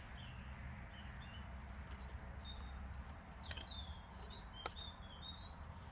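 Birds chirping in the background: short, high, falling chirps every second or so over a steady low hum, with a couple of faint clicks.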